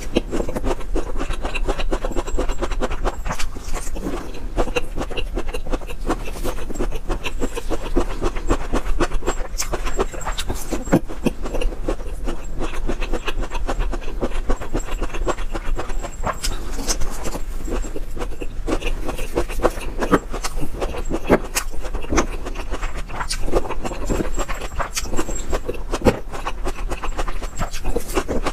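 Loud close-miked chewing of broccoli, a constant run of wet, crackly clicks and mouth sounds, over a faint steady low hum.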